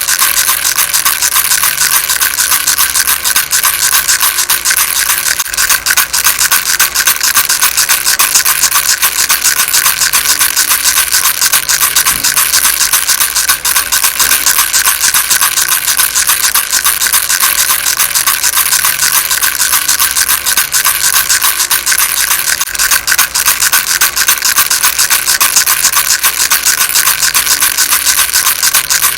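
A baby rattle shaken continuously: a dense, fast, high-pitched rattle that goes on steadily without a break.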